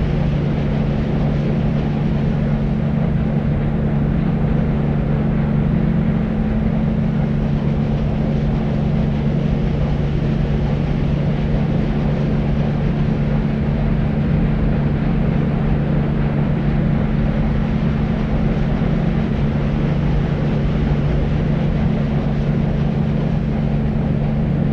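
Steady, unchanging deep white noise, a dark rushing hiss weighted toward the bass, with a constant low hum underneath.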